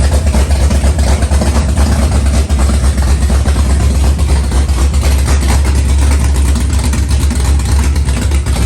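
An engine idling: a loud, steady low rumble with a fluttering beat.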